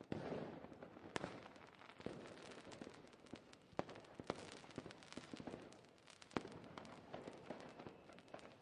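Fireworks going off: a louder burst right at the start trails off into a rumble, followed by a steady crackle with many sharp, scattered pops and cracks.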